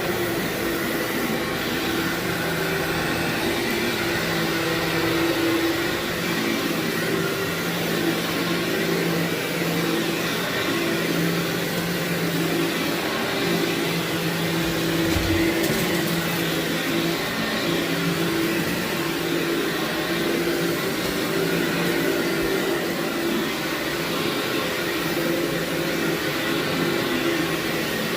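Vacuum cleaner running steadily with a constant motor hum, and a single brief knock about halfway through.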